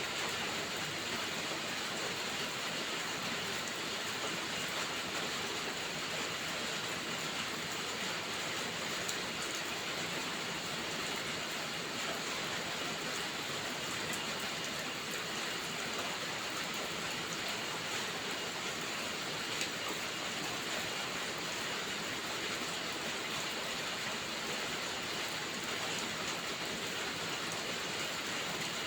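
Steady rainfall, an even hiss with a few faint ticks scattered through it.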